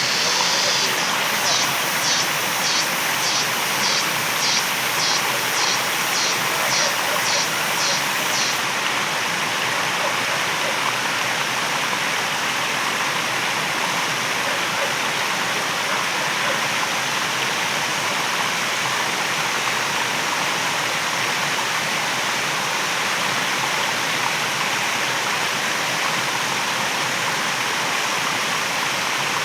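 Waterfall rushing steadily. For the first eight seconds or so, a high-pitched pulsing call repeats about twice a second over the rush, then stops.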